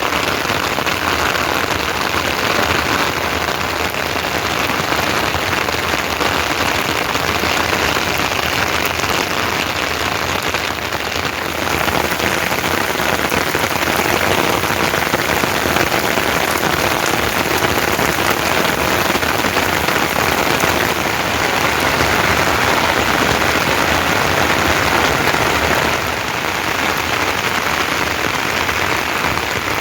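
Steady rain falling, a dense, even hiss with small shifts in level about a third of the way in and again near the end.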